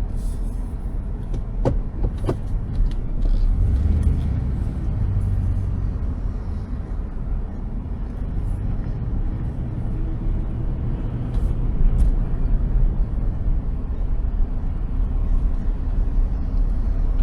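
A car driving slowly, heard from inside the cabin: a steady low road-and-engine rumble with a few light clicks.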